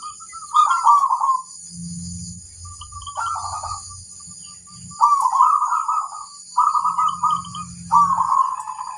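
Zebra dove (perkutut) cooing: about five short, rolling, warbled phrases with short pauses between them.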